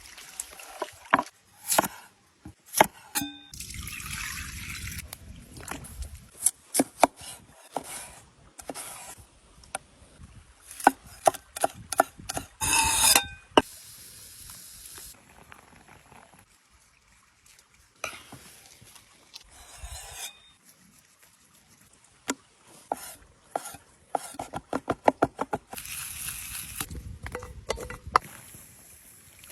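Hands-on food preparation: a long string of clicks, knocks and taps from utensils and food being handled, with stretches of liquid being stirred or poured. There is a quick run of clicks near the end.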